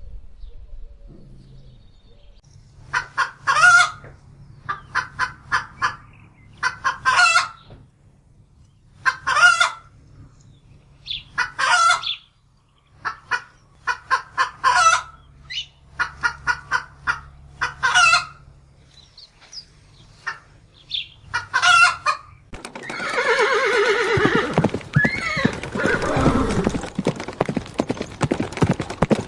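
Chickens clucking in short repeated bursts of calls, one group every second or two. Near the end the calls give way to a denser, continuous stretch of fowl calls.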